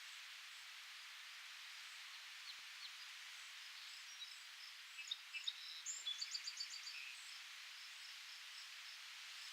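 Steady hiss of wind through leaves, with faint high chirps repeating throughout. A small songbird sings a short, rapid twittering phrase about five to seven seconds in.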